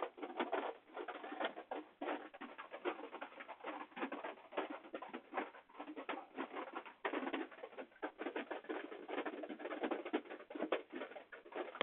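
Rain pattering: a dense, irregular run of drops ticking throughout, with no steady rhythm.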